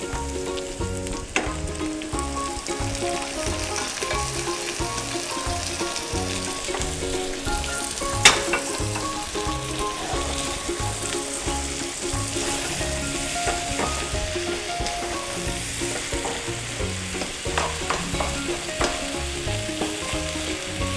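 Mixed vegetables sizzling in butter in a nonstick pot while a slotted spatula stirs them, with a sharp knock about eight seconds in.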